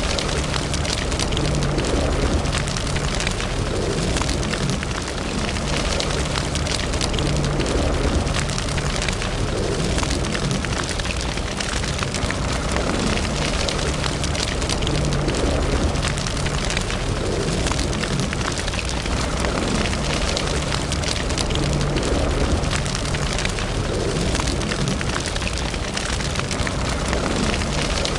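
Wood fire burning in a fireplace: a steady low rumble of flames with continual small crackles and pops.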